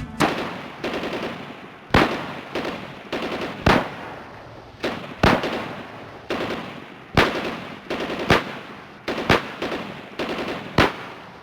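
A series of sharp bangs like gunshots, about one a second at uneven spacing, each with a short fading echo.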